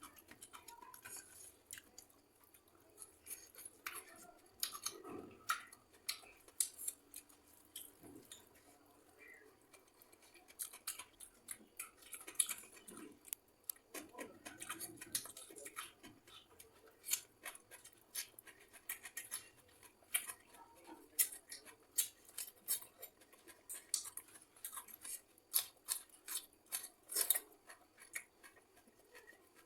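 A person eating close to the microphone: chewing with many short, crisp clicks and crunches, coming faster in the second half.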